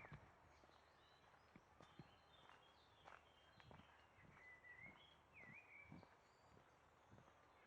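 Faint birdsong: many short chirps and whistles, among them a curling whistle about five seconds in, with soft footsteps on a path.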